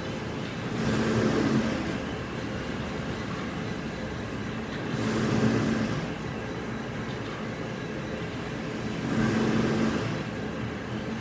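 Machinery running with a steady hum, rising three times in regular swells of hiss about four seconds apart, as in a repeating machine cycle.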